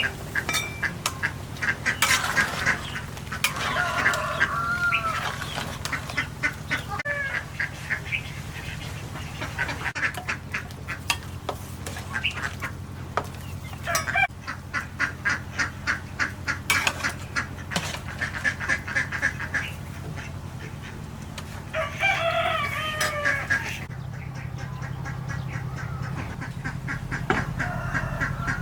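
Farmyard poultry calling, ducks and chickens, over a run of quick, sharp repeated taps.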